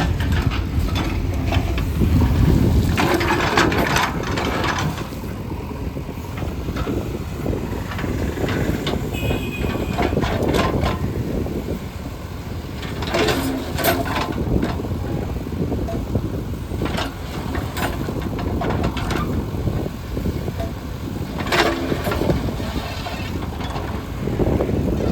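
Heavy diesel construction machinery running steadily, with several loud knocks and clanks along the way.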